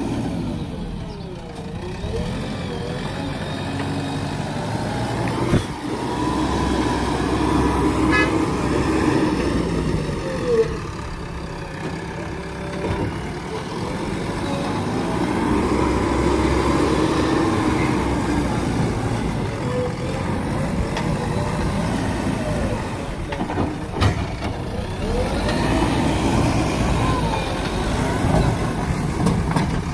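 JCB backhoe loader's diesel engine running under load, its pitch rising and falling again and again as the machine works, with a few sharp knocks.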